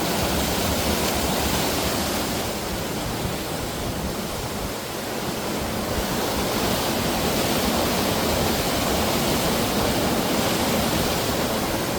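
Waterfall crashing down a rocky gorge, a loud steady rush of falling water heard from just above the falls.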